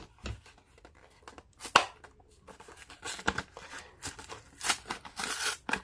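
Toy car packaging being handled and opened: scattered clicks, crinkles and short tearing rustles of card and plastic, with a sharper click a little under two seconds in.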